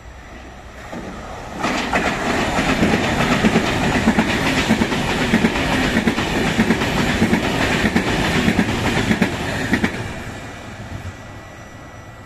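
Train passing at speed: it builds quickly about a second and a half in, runs loud for about eight seconds with rapid close-spaced wheel clatter, then fades away.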